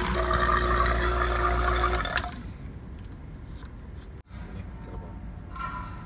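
A hiss of fluid rushing through the charging hose into a truck's air-conditioning system. It stops abruptly with a click about two seconds in, and a fainter hiss goes on after it.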